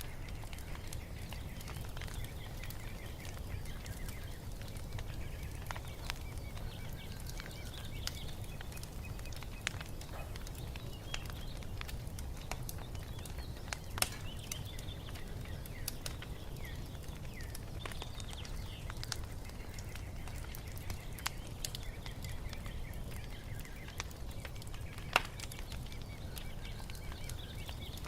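Wood fire crackling over a low steady rumble, with scattered sharp pops, the loudest around the middle and near the end. Birds chirp faintly in the background.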